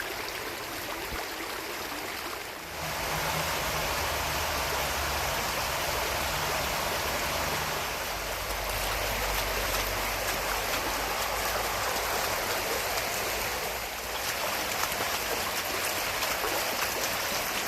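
Storm runoff stream rushing steadily over the rocks, growing louder about three seconds in.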